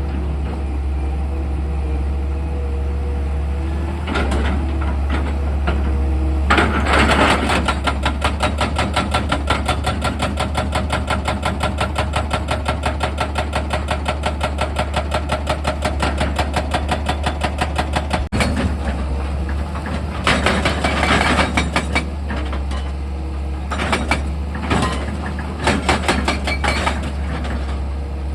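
Excavator's diesel engine humming steadily under a hydraulic percussive drilling attachment hammering at rock in rapid, even strokes. The hammering starts several seconds in, runs for about ten seconds, stops briefly, then comes back in a few shorter bursts.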